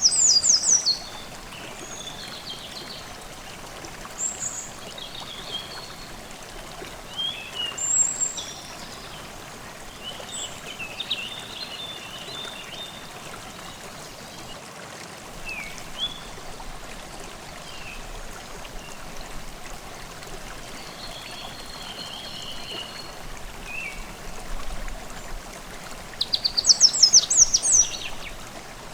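A forest stream babbling steadily, with birds singing over it: short scattered calls and chirps throughout, and a loud rapid trilling phrase at the start and again near the end.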